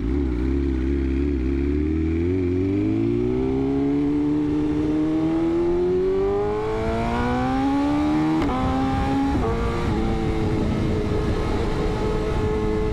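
Sport bike engine pulling hard, its pitch climbing steadily for several seconds, then dropping sharply twice in quick succession as the rider upshifts, before settling into a steady cruise.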